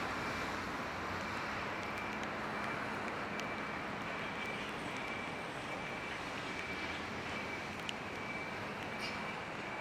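Steady city street noise on a rainy day: an unbroken hiss of traffic and rain, with a faint steady high tone and a few small ticks.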